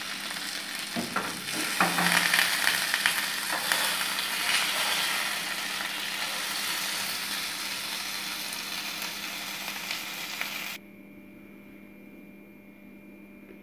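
Oil sizzling in a frying pan as sole fish shallow-fries, with a couple of light knocks about one and two seconds in. The sizzle cuts off suddenly near the end, leaving a faint steady hum.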